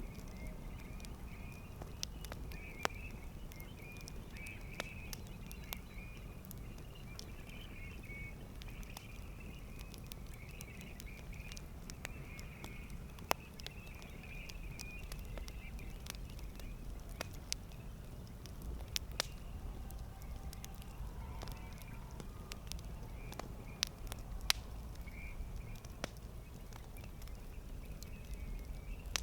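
Campfire crackling: burning wood giving scattered sharp pops and snaps, a few of them louder, over a steady low rumble of the flames.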